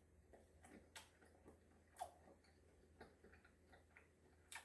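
Faint, irregular wet clicks of chewing a microwaved sausage close to the microphone, with a slightly louder one about two seconds in and another near the end.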